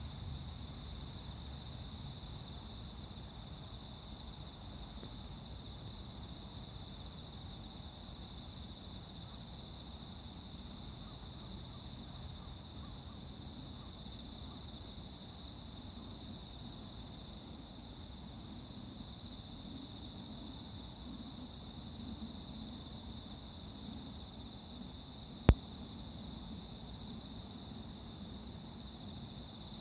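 Crickets and other singing insects in a steady dawn chorus, with continuous high trills and a fainter even pulsing trill, over a low distant rumble. One sharp click comes near the end.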